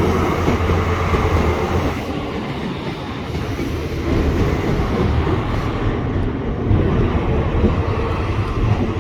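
Diesel multiple-unit passenger train passing over the level crossing: a steady low engine rumble with wheel and rail noise.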